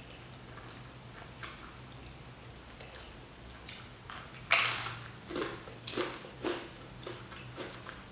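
Close-miked eating: faint small mouth sounds, then a loud bite about halfway through, followed by steady chewing about twice a second, of instant noodles topped with crunchy potato chips.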